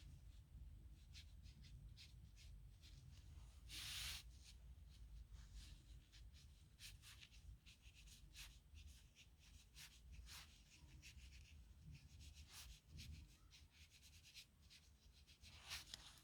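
Nib pen scratching faintly across paper in many short, irregular strokes, with a longer, louder stroke about four seconds in and another near the end.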